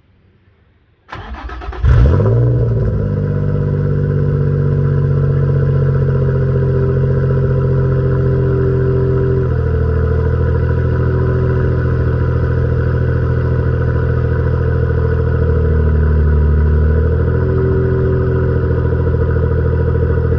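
Cold start of a 2006 Infiniti G35 coupe's 3.5-litre V6 through a Spec-D cat-back exhaust: the starter cranks about a second in, the engine catches with a brief flare in revs, then settles into a steady idle whose pitch shifts slightly twice.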